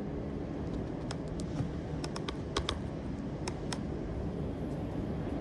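Scattered light clicks, about a dozen in irregular groups in the first few seconds, over a steady low rumble.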